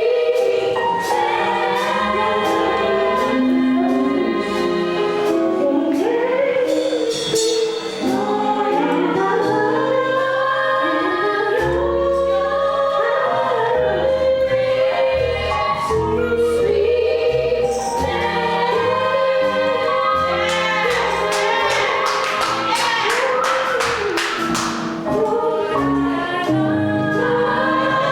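Gospel choir singing with band accompaniment: bass, drums and a run of cymbal strokes around the twentieth second.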